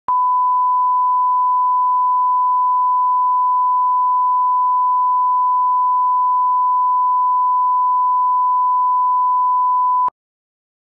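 Electronic test tone: a single steady pure beep at one unchanging pitch, held for about ten seconds and then cut off suddenly.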